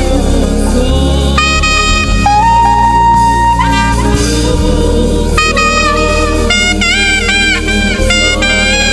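Live gospel band playing an instrumental passage, with a saxophone carrying the lead melody in long held notes with vibrato over bass and keyboard accompaniment.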